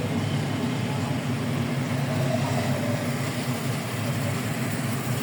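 Car driving along a road: steady engine and tyre drone with no breaks.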